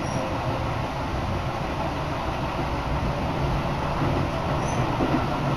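Steady running noise inside a moving electric commuter train carriage while it is under way between stations.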